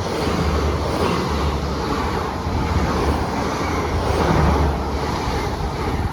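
Great Western Railway Class 800 IET, two units coupled, passing through the station: a steady, loud rumble of wheels and running gear that swells a few times as the carriages go by.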